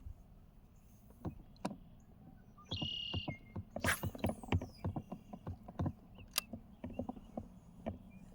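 Irregular knocks and clicks of gear being handled on a fishing kayak, with a short whirring zip about three seconds in.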